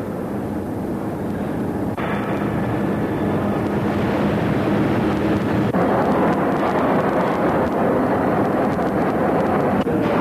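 Heavy Ural truck with a diesel engine, running and driving, a steady engine-and-road noise that grows louder, with abrupt changes about two seconds and six seconds in.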